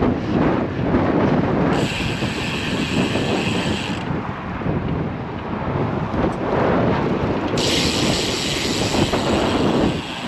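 Strong headwind rushing and buffeting over the microphone of a moving road bicycle, a loud rough rumble, with two spells of added high hiss about two seconds in and again near the end.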